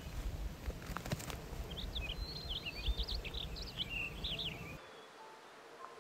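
A small songbird singing a quick, twittering run of high chirps over wind rumbling on the microphone, with a single sharp tap about a second in. Near the end the wind noise stops abruptly.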